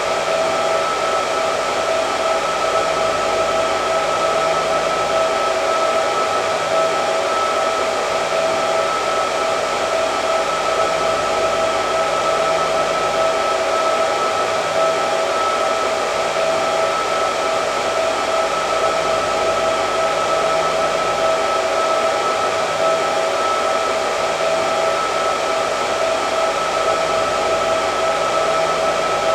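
Hair dryer running steadily: a constant blowing rush with a steady whine over it.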